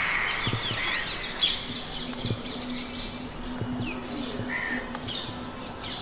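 Birds chirping and twittering, many short calls overlapping, with quick rising and falling notes.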